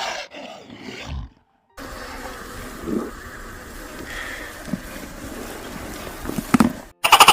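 Big cat growling and roaring, cut off by a short silence about a second in and then resuming, with a brief loud buzzy call starting at the very end.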